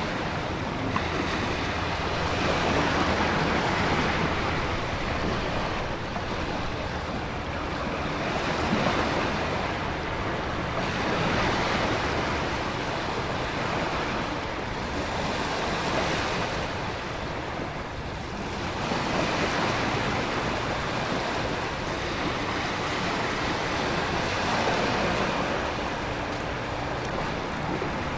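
Storm ambience: a steady wash of heavy rain and wind, with ocean waves surging in slow swells every few seconds.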